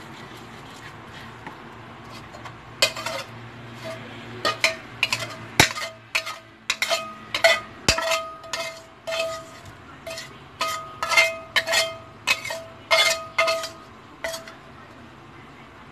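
A metal utensil repeatedly clinking and scraping against a dish, a quick series of sharp ringing clinks that starts about three seconds in and stops shortly before the end.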